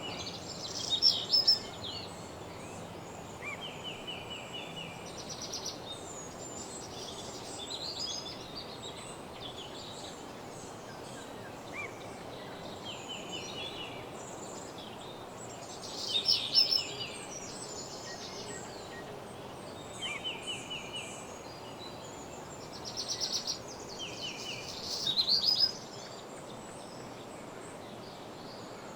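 Morning woodland birdsong: several songbirds singing over a steady background hiss. Louder phrases of quick repeated notes come about a second in, around the middle, and again near the end, with fainter calls in between.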